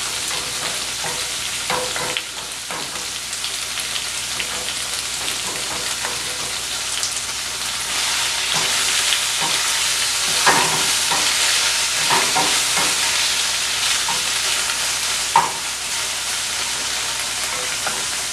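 Cubed tofu and eggs sizzling in oil in two frying pans, with a wooden spoon knocking and scraping against the pans as they are stirred and turned. The sizzle grows a little louder about eight seconds in.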